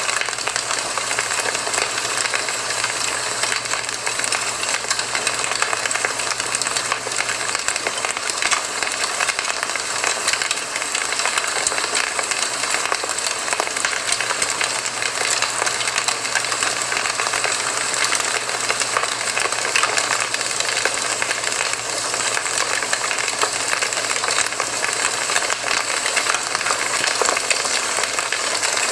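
Campfire burning, the wood crackling steadily in dense, irregular snaps over a soft hiss.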